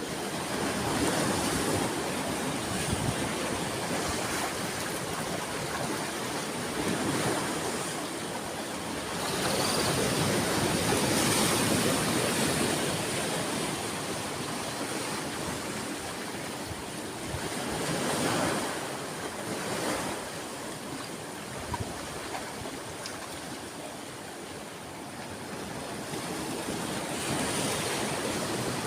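Sea waves breaking and washing ashore, swelling and ebbing every few seconds, with the biggest surge about ten seconds in.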